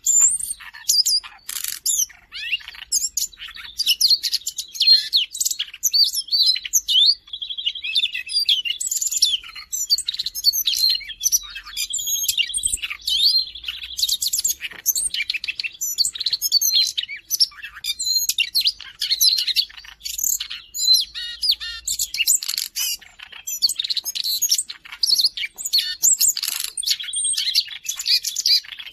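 Siberian rubythroat singing continuously: a fast, varied warble of high notes, broken several times by a held steady note.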